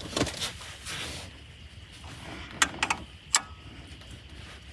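Hand tools being handled, a socket and ratchet: rustling handling noise, then three sharp metallic clicks about midway.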